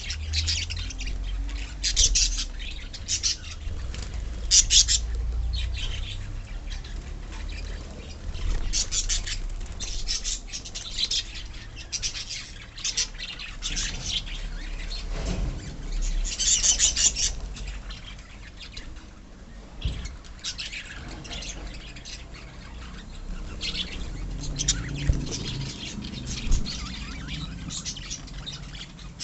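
A colony of lovebirds calling, with many overlapping sharp, high-pitched chirps and squawks coming in busy clusters.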